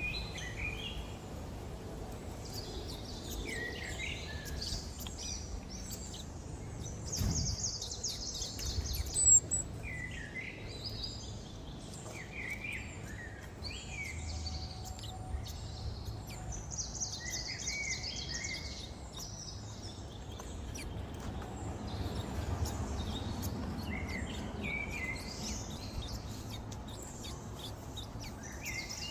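Small songbirds chirping and calling on and off, with short buzzy high trills now and then, over a steady low rumble. A single knock about seven seconds in.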